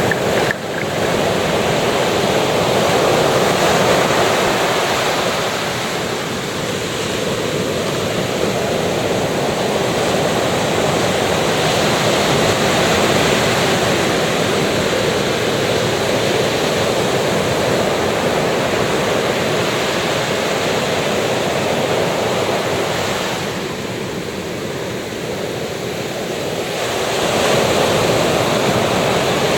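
Sea waves breaking and washing up a beach, a continuous surf noise that swells and eases slowly, with softer lulls about a quarter of the way in and again after two thirds.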